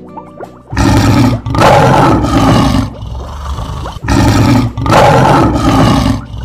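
Lion roar sound effect, heard twice: two loud roars of about two seconds each, the first starting about a second in and the second about four seconds in.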